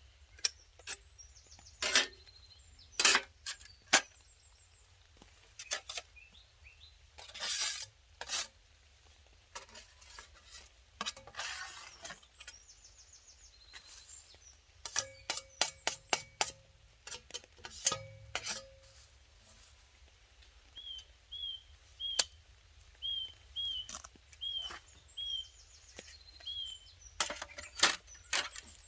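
Metal camping stove and cookware being handled and packed away: irregular clinks, knocks and rattles of metal on metal. A small bird chirps several times in a row a little past the middle.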